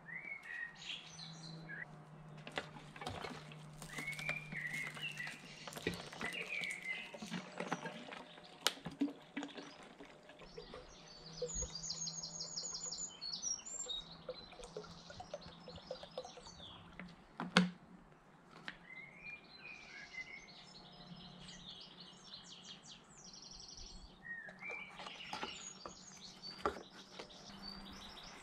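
Small birds chirping and singing, with rapid trills near the middle, over a low steady hum. A few sharp knocks, the loudest about two-thirds of the way through.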